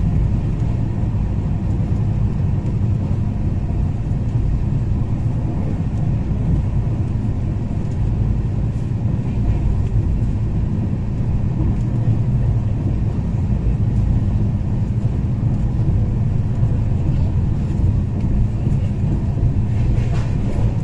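Steady low rumble of a train running along the track, heard from on board.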